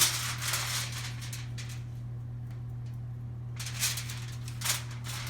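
Crackly rustling and handling noises in two stretches, with a quieter gap between them, over a steady low electrical hum.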